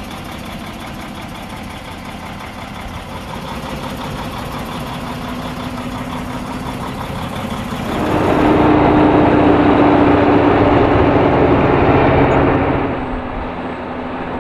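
Claas Xerion 640 tractor's diesel engine running steadily, then revving up, louder and slightly higher, about eight seconds in. It holds there for about five seconds, then drops back to a lower, steady run.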